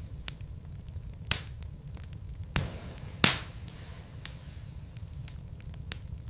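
Burning wood logs in a fireplace, crackling: scattered snaps and clicks over a low steady rumble, with three louder pops, the loudest about three seconds in.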